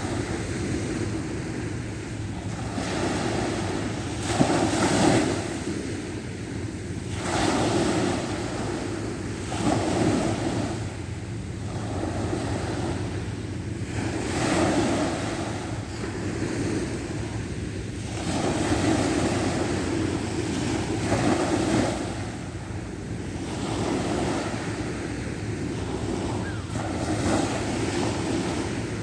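Sea waves washing onto the shore, the surf swelling and falling back every two to three seconds, with a steady rumble of wind on the microphone underneath.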